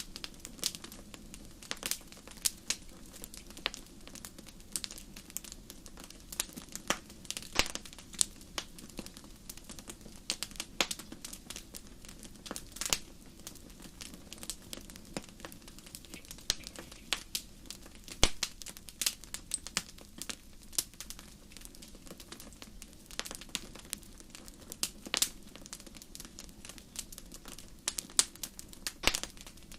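Wood fire crackling in a fireplace: frequent, irregular sharp pops and snaps over a low, steady hiss.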